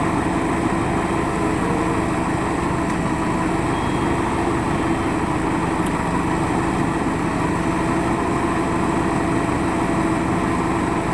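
Diesel engine of heavy machinery running steadily at one constant speed, with no revving.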